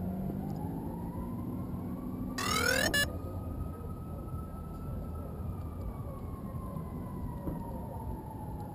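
Electric motor whine of a radio-controlled aircraft, its pitch gliding slowly up and then back down. About two and a half seconds in comes a brief, louder burst of fast-rising whine. A steady low rumble runs underneath.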